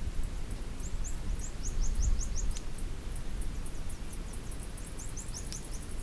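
Outdoor ambience: a bird chirping in quick runs of short, high, falling notes, with a fast high ticking that grows busier near the end, over a steady low rumble.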